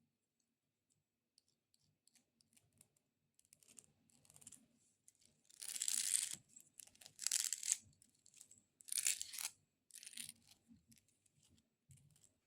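XXL fingernails scratching over a baby dragon figure in three loud strokes of about a second each around the middle, with light nail taps before and smaller scratches after.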